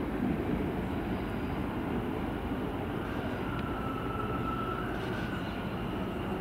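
Electric multiple-unit passenger train running through the station, a steady low rumble with a faint high whine for a couple of seconds in the middle.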